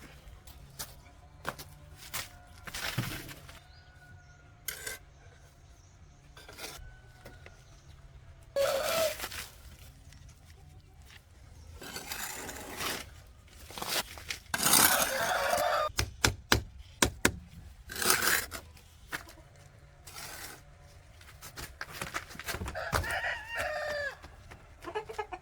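Chickens clucking with a rooster crowing several times, the long calls lasting about a second each, mixed with sharp knocks and clicks.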